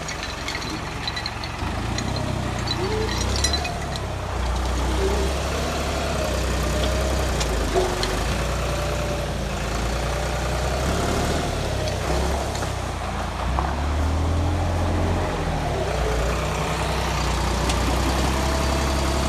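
Deutz-Fahr 4055 tractor engine working under load, its revs rising and falling as it moves logs, with a few light clanks.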